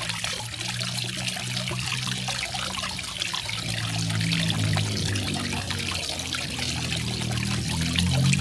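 Garden waterfall: water trickling and splashing steadily, with a low rumble of falling water underneath that swells around the middle and again near the end.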